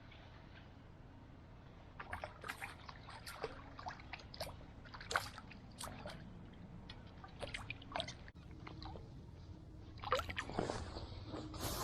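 Small splashes and drips of creek water in short irregular bursts, with a busier run of splashing near the end.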